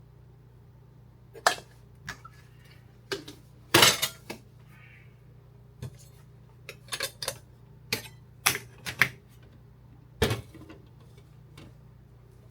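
Dishes and utensils clinking and clattering, a dozen or so sharp knocks and clinks with the loudest about four seconds in, over a steady low hum.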